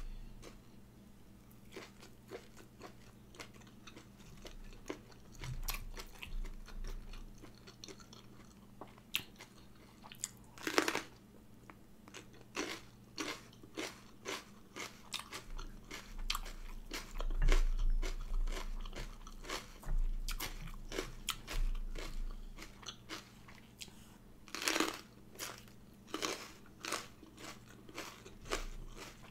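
A person chewing and crunching food close to the microphone, eating raw shrimp salad with sticky rice and biting into fresh jalapeño pepper. Many small wet mouth clicks throughout, with louder crunches about 11 and 25 seconds in.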